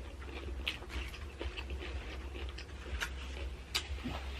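Close-up chewing of a nacho salad with Doritos: irregular crisp crunches and mouth sounds, a few a second, over a low steady hum.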